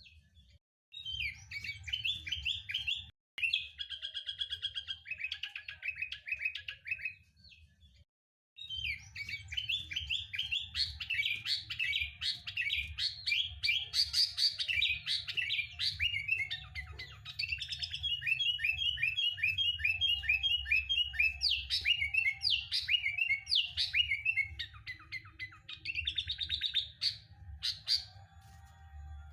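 Sooty-headed bulbul (kutilang) singing busy runs of quick chirps and rapid trills, with brief breaks just after the start and about eight seconds in.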